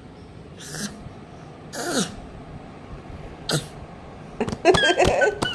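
A toddler's breathy, huffing "ha" sounds imitating a lion's roar: three short bursts about a second apart, one with a falling voiced growl, then a jumble of clicks and small vocal sounds near the end.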